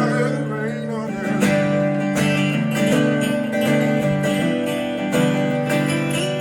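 Acoustic bluegrass band playing an instrumental passage, led by strummed acoustic guitar, with no singing.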